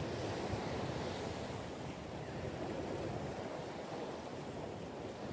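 Steady rushing noise of wind and surf, even throughout, with no distinct events.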